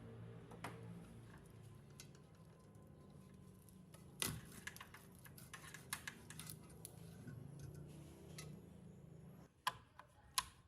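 Scattered light clicks and clinks of small hard objects being handled, the loudest about four seconds in and two more near the end, over a faint low hum.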